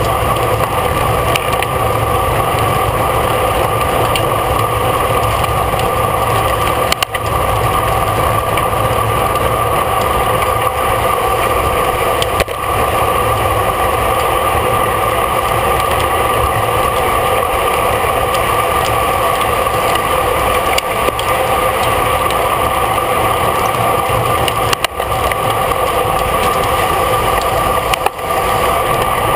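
Steady rush of wind and road noise on a cyclist's camera during a road race, with a constant whistle-like tone over it and a few brief dips.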